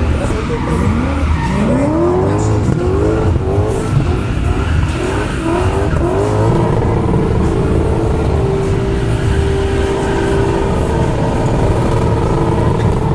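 V8 engine of a V8-swapped BMW E46 drift car revving up and down in quick repeated surges, then held at steady high revs for several seconds from about halfway in, with tyres skidding under it.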